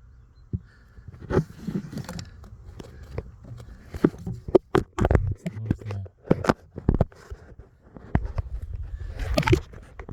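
Irregular knocks, taps and scrapes of close-up handling, a dozen or so sharp clicks spread unevenly, with a burst of scraping near the end.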